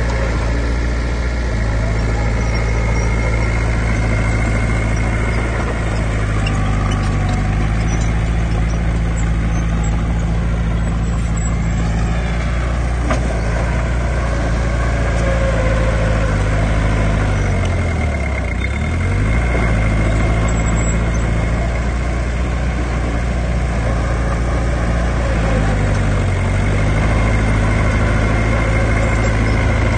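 Heavy diesel earthmoving engine running steadily, its pitch shifting a few times and dipping sharply for about a second near the middle before it recovers, as when the machine takes a load.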